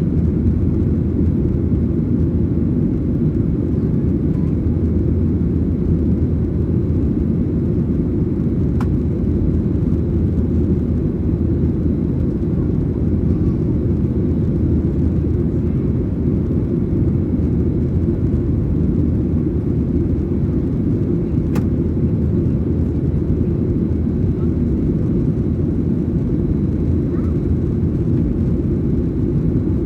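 Steady low rumble of a Boeing 737-900ER in flight, its CFM56-7B turbofan engines and airflow heard inside the cabin. Two faint clicks come through, about nine seconds in and near two-thirds of the way through.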